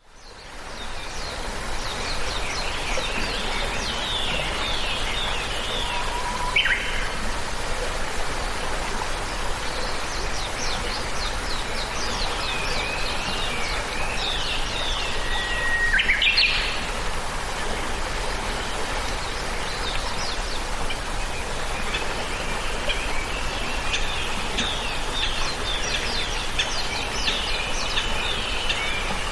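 Small birds chirping and twittering over a steady background hiss, fading in at the start.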